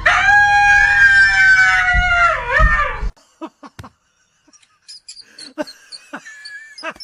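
A dog howling: one long high-pitched call of about three seconds that sags slightly in pitch and dips at the end. It is followed by a few faint clicks and knocks.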